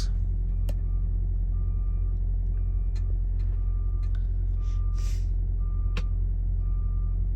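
Truck reversing alarm beeping about once a second as a truck backs into a parking spot, over a steady low engine drone. A brief hiss comes about five seconds in.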